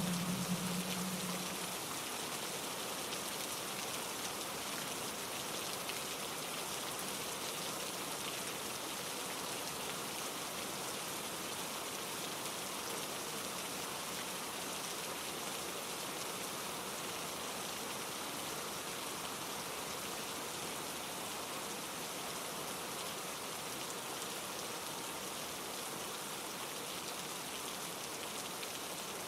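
Steady rain falling, mixed with a mountain stream rushing over rocks. A low rumble fades away in the first second or two.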